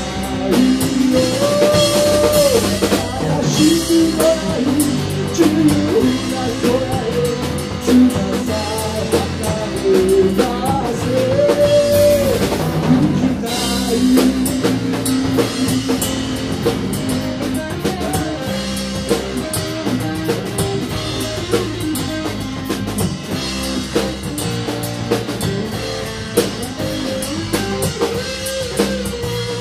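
Rock band playing an instrumental passage: drum kit, bass and guitar, with a melodic lead line that slides between notes.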